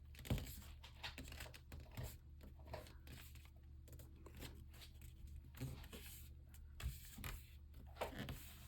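A sheet of paper being folded and creased by hand into a paper airplane's wing fold: faint, scattered rustles and crinkles with soft taps.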